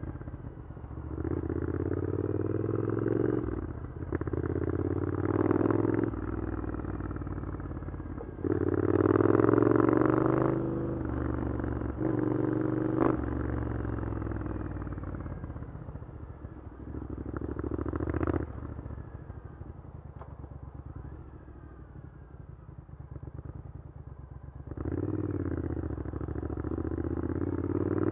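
Triumph Scrambler 900's parallel-twin engine through an Arrow exhaust, riding through town. It pulls away in about six bursts of throttle, the pitch rising through each, and eases off to lower revs and coasts between them, quietest just past the middle.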